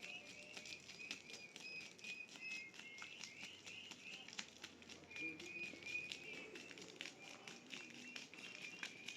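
Small birds chirping in quick repeated short notes, faint, with scattered light clicks.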